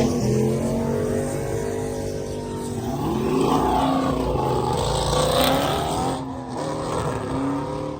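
Loud car exhaust as a car accelerates away, the engine note rising and falling in pitch and getting quieter near the end.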